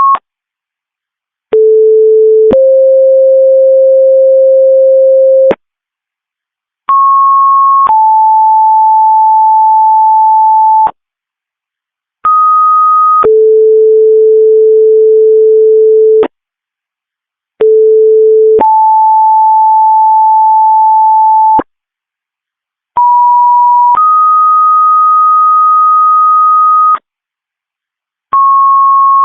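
Fire dispatch radio alert tones: two-tone sequential pages, each a short steady tone of about a second followed straight away by a longer steady tone of about three seconds at a different pitch. The pairs repeat five times with pauses of about a second and a half between them, each pair at different pitches, the code that sets off one fire station's pagers.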